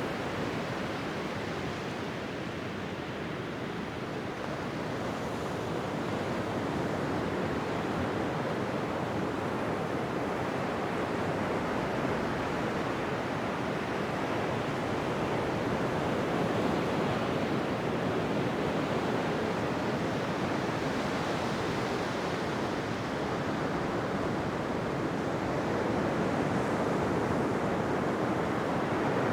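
Ocean surf washing onto a beach: a steady rush of breaking waves that swells and eases slowly, fuller around halfway through and again near the end.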